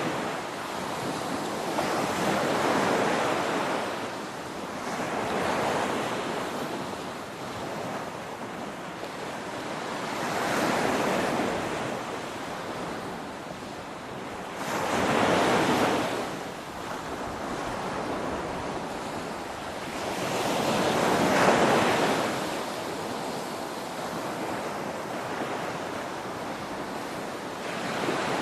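Ocean waves breaking on a beach: a steady wash of surf with a wave swelling up and falling away about every five seconds.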